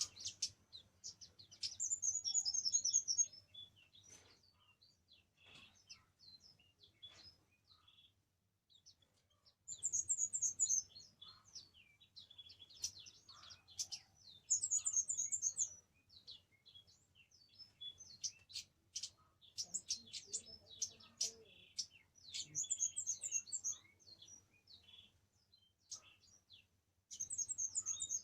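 A kamade songbird singing: short bursts of rapid, high chirping trills about a second long, repeated every few seconds, with softer scattered chirps in between.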